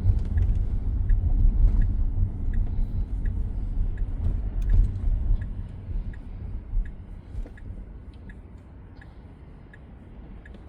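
Low road and tyre rumble inside a Tesla Model X cabin, loudest in the first half and fading as the car slows, with the turn signal ticking steadily, about three ticks every two seconds.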